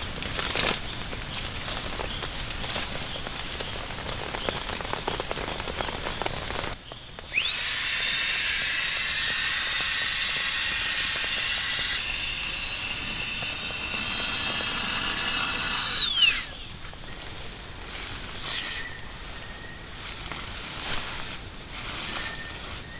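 A small electric motor spins up with a quickly rising whine, runs at a high steady pitch for about nine seconds and then spins down. Before it there is a steady patter of rain with scattered light clicks.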